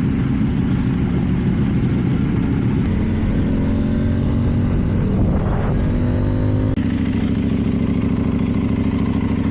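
KTM Duke 790's parallel-twin engine through an Akrapovic exhaust, running steadily while riding. About three and a half seconds in its pitch climbs as the bike accelerates, then cuts back abruptly near seven seconds in.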